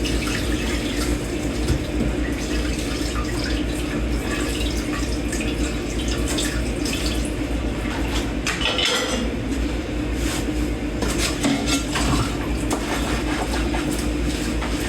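Dishes being washed by hand at a kitchen sink: tap water running steadily, with dishes and cutlery clinking now and then, a brief cluster of clatter about halfway through.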